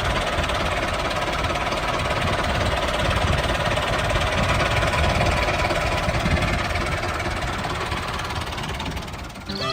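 Small motor-driven homemade machine running steadily, dropping away about nine seconds in.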